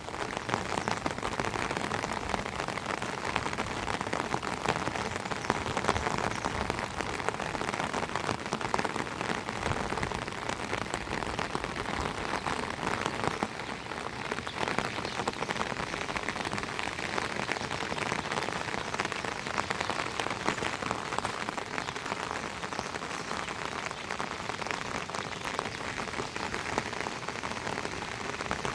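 Heavy rain falling steadily, a dense mass of small drop impacts at an even level throughout.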